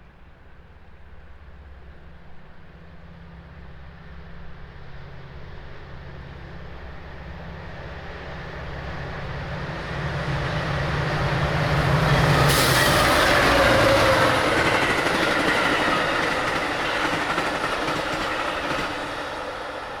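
Metra diesel commuter train approaching and passing at speed: a low locomotive engine drone builds over several seconds, then a sudden rush of wheel and car noise with clickety-clack about twelve seconds in, loudest there, fading slowly as the cars go by.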